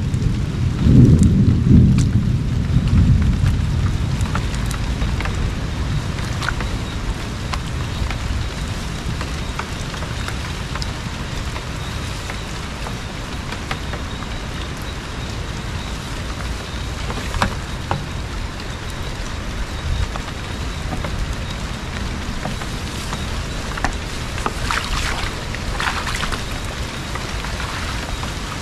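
Steady rain, an even hiss with scattered drops ticking, and a heavier low rumble in the first few seconds.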